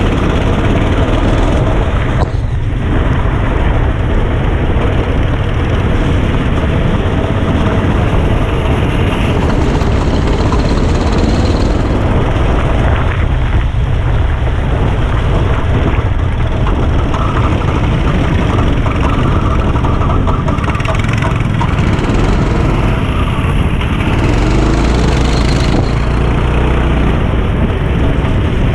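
Go-kart engine running continuously and loudly, heard from on board the kart.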